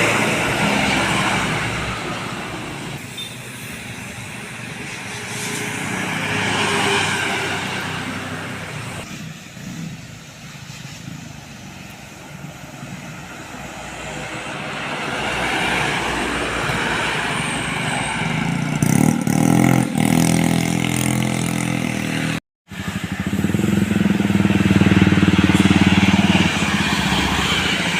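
Heavy vehicles, trucks and buses, passing close one after another on a road, each engine rising and fading as it goes by. A brief cut to silence comes about two thirds of the way through, followed by a loud passing vehicle with a strong engine drone.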